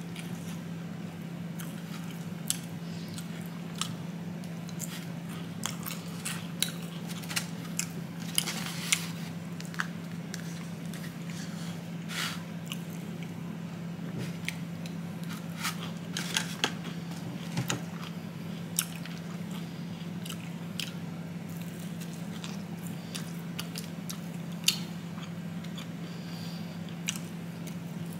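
Close-up chewing and biting of crispy fried chicken fingers, with many small crunches and wet mouth clicks. A mouthful of coleslaw is eaten about halfway through. A steady low hum runs underneath.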